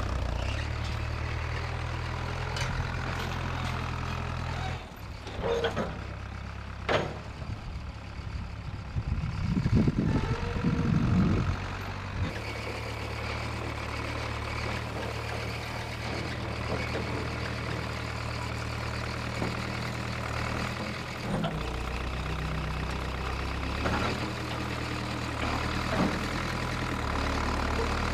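1968 Case backhoe's engine running, its pitch stepping up and down as it works, with a few sharp knocks and clanks. About ten seconds in it surges louder for a couple of seconds.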